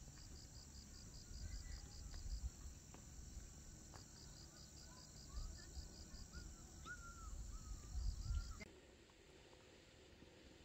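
Faint insect chirping, probably crickets, in quick runs of about five or six pulses a second over a low outdoor rumble, with a few faint short calls. The sound drops away suddenly near the end.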